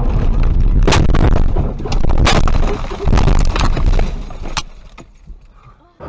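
Car crash: several sharp bangs of a vehicle collision, the loudest about one and two seconds in, over a low rumble that dies away near the end.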